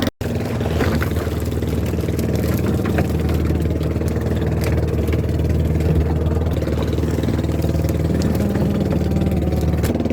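Small fishing boat's engine running at a steady pace, an even drone with a momentary break near the start.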